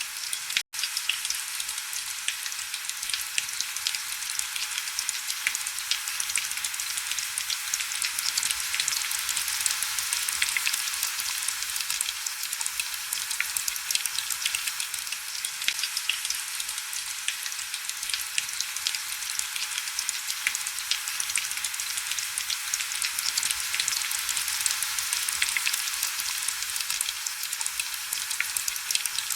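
Heavy, steady rain, a dense crackling hiss of countless fine drops, thin in the low end. It cuts out for an instant under a second in.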